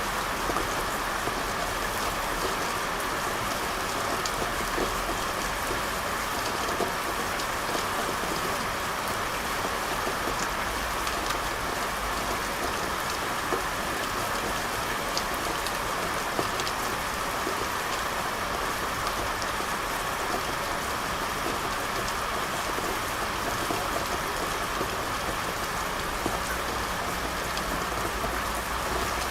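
Steady rain falling, with scattered ticks of individual drops.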